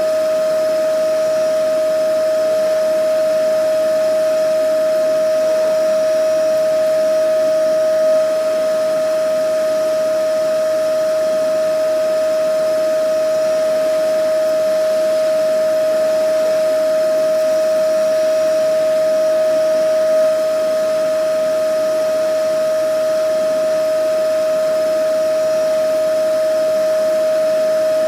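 Vacuum cleaner running steadily: an unchanging motor whine over an even hiss of rushing air.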